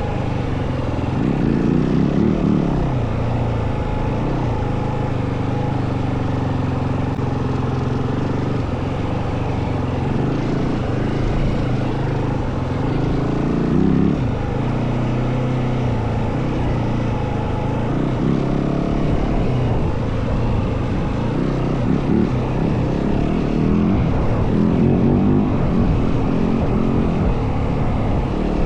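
Single-cylinder four-stroke engine of a Yamaha WR450F dirt bike running under way, its pitch rising and falling as the throttle is opened and closed, over a steady rush of wind.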